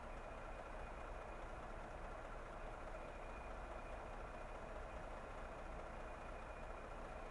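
Car driving at a steady speed: a steady hum of road and engine noise with a low rumble and a faint high whine.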